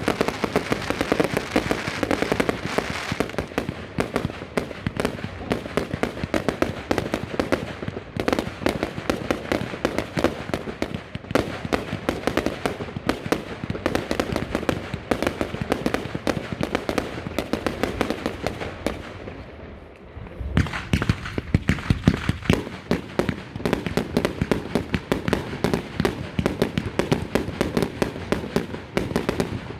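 Strings of firecrackers going off in a rapid, continuous rattle of bangs. The first string dies away about twenty seconds in and a second one starts almost at once.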